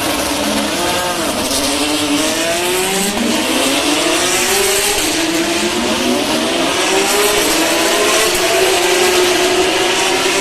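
Several race car engines passing at once, their overlapping notes rising and falling in pitch. Near the end, one note holds steadier.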